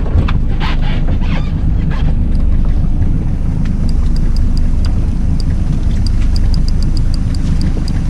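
Boat motor running steadily with wind on the microphone, giving a constant low rumble. In the second half, a run of light, high clicks comes two or three times a second.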